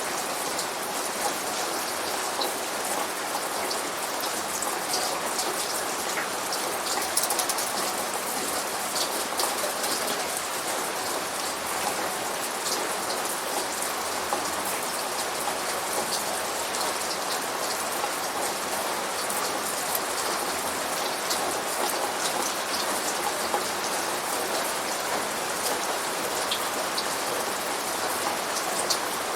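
Steady rain falling, with many individual drops ticking on a surface. There is no thunder.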